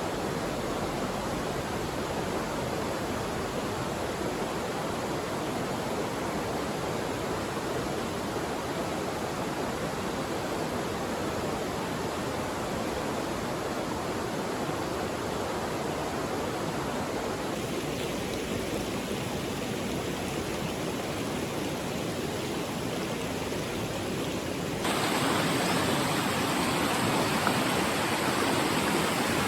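Mountain stream water rushing steadily over rocks; near the end the rush suddenly becomes louder and brighter.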